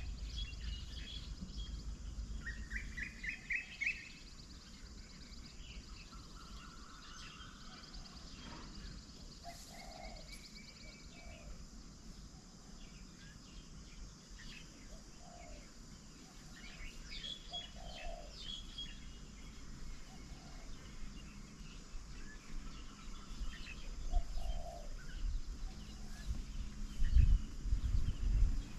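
Several wild birds chirping and calling at intervals, including a short run of rising notes about three seconds in, over a faint steady outdoor hiss. A few low rumbles come near the end.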